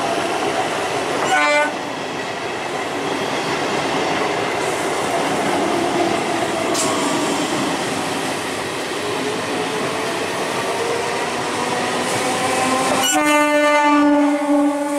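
Electric multiple-unit (EMU) local trains running past on the rails, a steady rumble and rattle of wheels and coaches. About 13 seconds in, an EMU sounds its horn, a loud steady horn that holds on to the end.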